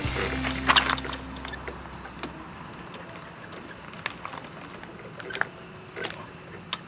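Steady high-pitched chirring of insects, with a few sharp clicks and knocks of the clutch cable and its metal fittings being handled as the cable end is worked through its holder.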